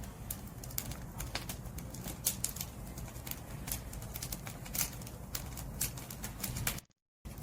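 Firewood burning in a bonfire: irregular sharp crackles and pops over a low rumble of the flames. The sound cuts out completely for a moment near the end.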